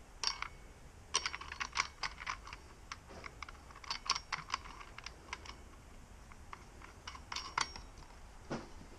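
Irregular light clicks and taps of small metal parts being handled as a circular saw's blade, washer and arbor bolt are fitted, with a couple of duller knocks near the end.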